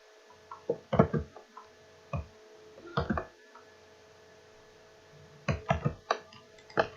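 Computer mouse clicking in short clusters of sharp clicks, over a faint steady electrical hum.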